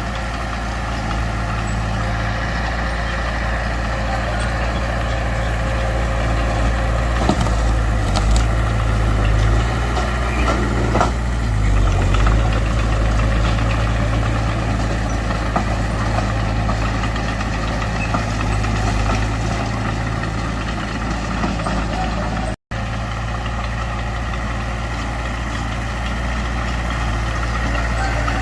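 Heavy diesel engine of earthmoving machinery running steadily, with a few metallic clanks about seven to twelve seconds in. The sound cuts out for an instant a little over twenty seconds in.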